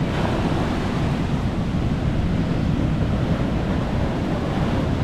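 Sea waves washing onto a beach in a steady roar, with wind rumbling on the microphone.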